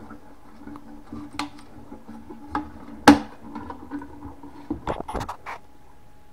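Scattered light clicks and knocks of a metal gas mask canister being handled, with one sharp click about three seconds in and a quick run of knocks near five seconds. A low hum runs under them and stops just before five seconds.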